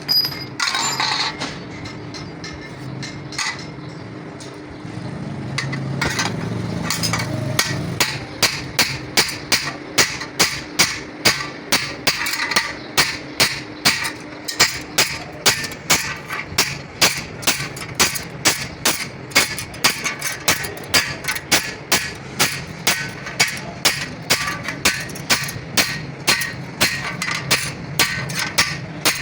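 Hammer striking metal in a steady rhythm, about two blows a second, starting about eight seconds in. Before that come a few scattered knocks over a low hum.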